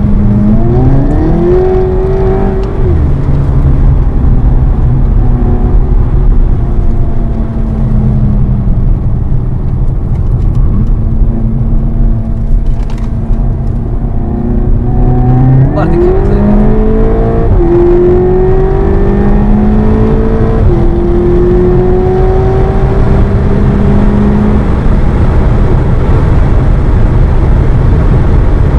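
Seat Leon Cupra 280's turbocharged 2.0-litre four-cylinder engine heard from inside the cabin on a fast lap. The engine note rises about a second in and holds, then climbs again past the middle with two sudden drops as the DSG gearbox shifts up, over a loud, steady rumble.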